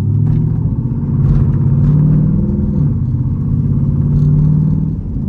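Jeep Grand Cherokee Trackhawk's 6.2-litre V8 running without its supercharger, pulling under acceleration. The revs climb for nearly three seconds, drop at a gear change, then hold steady before easing off near the end.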